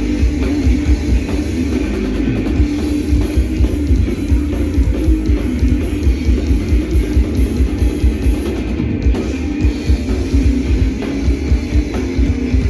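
Crossover thrash band playing live in an instrumental passage: distorted electric guitars, bass and fast drumming on a full drum kit, with a heavy, quickly pulsing low end.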